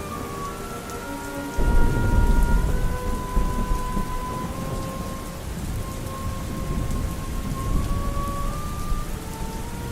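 Steady rain with a roll of thunder that breaks in about a second and a half in and rumbles on, the loudest sound. Faint music with long held notes plays underneath.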